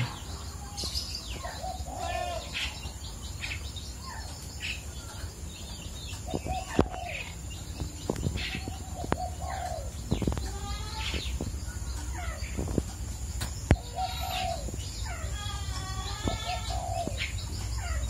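Birds chirping and calling in short, scattered notes, with a burst of quick wavering calls near the end. A few sharp clicks fall in between.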